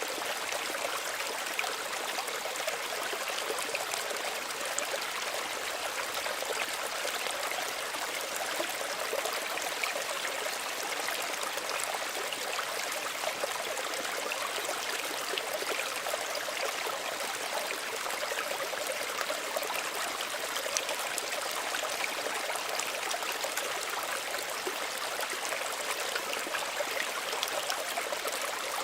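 Small stream of running water, trickling and gurgling steadily over stones without a break.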